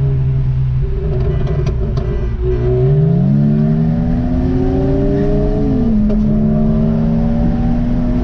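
Car engine accelerating: its steady drone jumps up in pitch about two and a half seconds in, keeps climbing slowly, then drops at a gear change near six seconds and holds steady.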